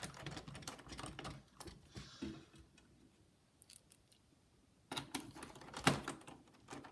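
Irregular small clicks and taps of a laptop's plastic and metal parts being handled during reassembly, busier at first, pausing, then a few sharper clicks near the end.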